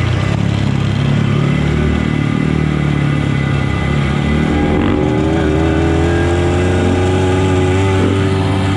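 Motorcycle engine running under way. Its pitch falls over the first few seconds, rises again about halfway through, then holds steady.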